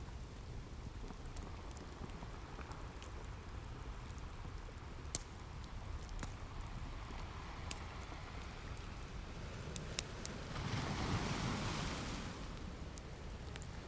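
Ocean waves washing on a shore, with one surf surge swelling about three-quarters of the way in, and a log fire crackling, giving scattered sharp pops.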